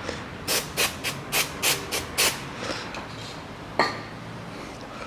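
Quick rubbing strokes, about three a second, of copper grease being spread onto a car wheel hub's mounting seat, stopping after about two seconds; a single sharp click follows near the end.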